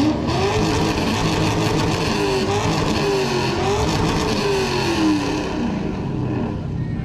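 A car engine revved hard several times, its pitch climbing and falling repeatedly before easing off near the end.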